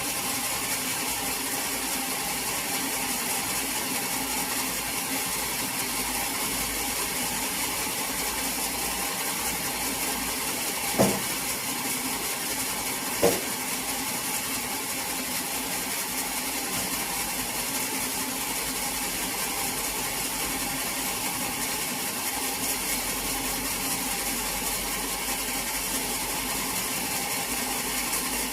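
Sawmill machinery running steadily, a continuous mechanical whir and hiss, with two sharp knocks a couple of seconds apart near the middle.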